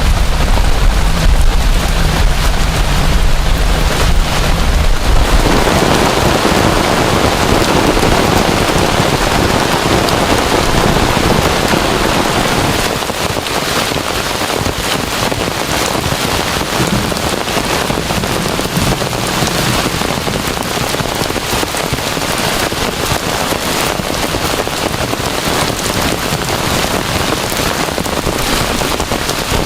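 Heavy rain pouring steadily, with a deep thunder rumble that dies away in the first five seconds or so.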